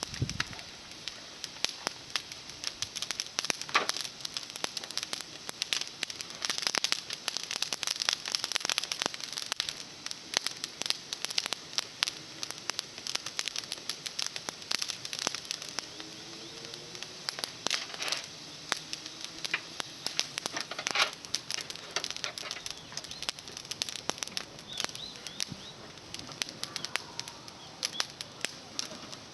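Campfire of small climbing-rose twigs crackling and popping, with dense, irregular sharp snaps throughout.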